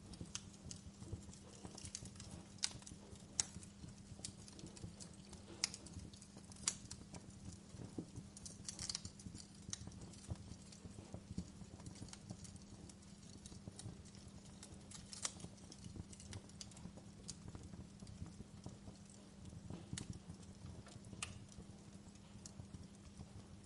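Wood fire burning in a fireplace, crackling with irregular sharp snaps and pops of the burning logs, a few louder pops in the first third.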